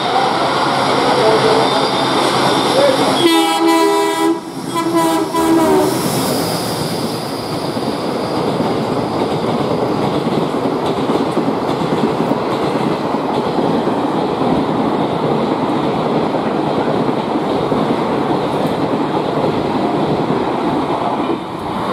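Express train behind a WDM diesel locomotive running through a station at speed. The locomotive sounds its horn for about two and a half seconds, starting about three seconds in. It then passes, and is followed by the long, steady noise of ICF coaches going by, which drops away near the end.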